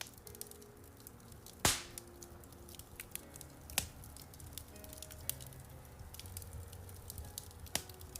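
Wood fire crackling in a fireplace: a steady scatter of small snaps, with a loud pop about one and a half seconds in and smaller pops near four and eight seconds in. Relaxing piano music with sustained notes plays underneath.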